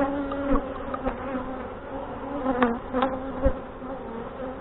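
Honey bees buzzing in numbers around an open hive, with single bees droning close past the microphone so the hum wavers in pitch; a few light clicks. The colony is agitated by the inspection.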